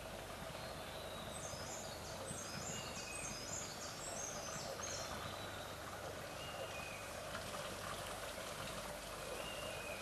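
Small birds chirping: a busy flurry of short, high-pitched notes from about a second and a half to five seconds in, then a few scattered lower calls. Behind them runs a steady rushing hiss of water.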